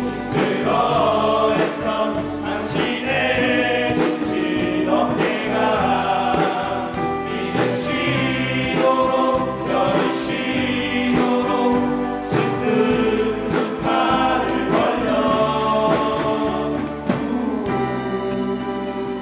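Men's vocal ensemble singing a gospel hymn in harmony over instrumental accompaniment; near the end the voices drop out and the accompaniment plays on.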